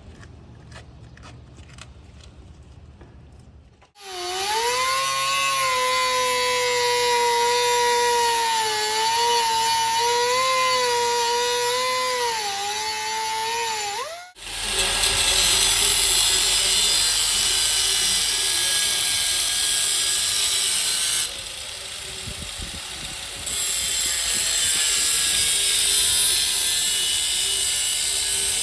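Power tool cutting and grinding the exhaust pipe. Faint clicking at first, then about four seconds in a loud whine that rises and falls with the load, which stops abruptly. It gives way to a steady hissing grind that drops off briefly and resumes.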